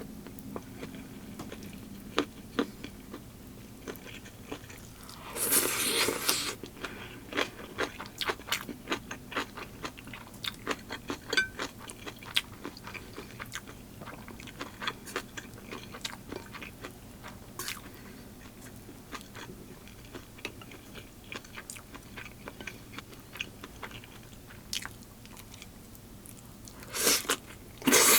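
Close-miked eating: a person chewing and biting crunchy food, with many small mouth clicks. There are two louder, longer bursts of crunching, about five seconds in and near the end.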